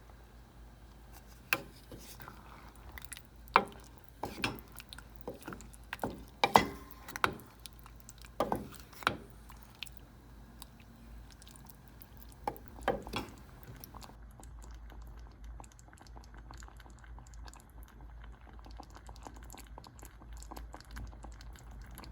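Sharp clinks and taps of cutlery against a dish, a dozen or so irregular strikes over about thirteen seconds, then they stop and only a faint low hum remains.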